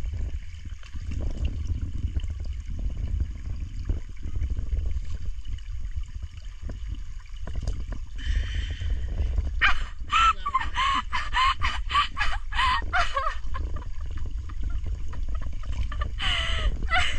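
A diver laughing underwater through a regulator, a quick run of short squeaky bursts starting about ten seconds in and coming back briefly near the end, over a steady low rumble of water and bubbles.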